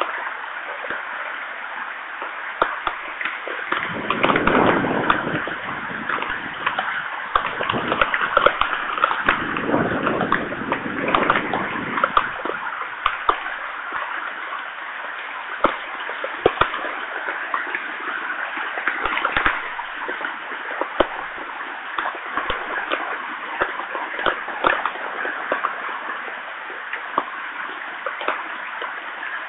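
Heavy rain falling steadily, with many sharp taps of drops close by. Thunder rumbles twice, about four seconds in and again around nine seconds in, each roll lasting about three seconds.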